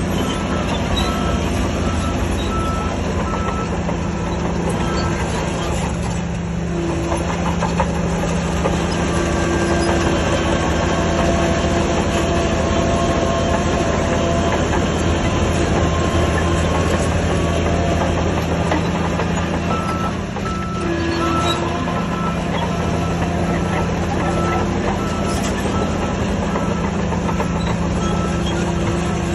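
Heavy diesel earthmoving machinery running steadily under load. A reversing alarm beeps in a regular pattern near the start and again from about two-thirds of the way through.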